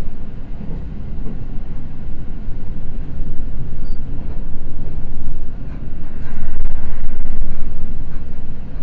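Seibu Red Arrow limited express heard from inside the car while running at speed: a steady rumble of wheels on rail. The rumble gets louder for the last three seconds as the train runs through Hanakoganei station without stopping.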